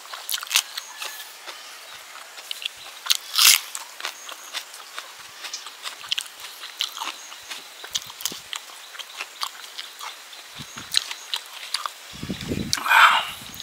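A person eating by hand close to the microphone: chewing and biting with many short wet clicks, smacks and crunches. There is a sharp loud crunch about three and a half seconds in and a louder, longer noise near the end.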